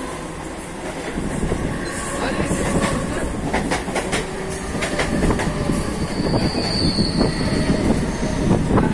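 Mumbai suburban local train running at speed, its wheels rattling over the rails with a run of sharp clicks a few seconds in. A brief high squeal comes about two-thirds of the way through.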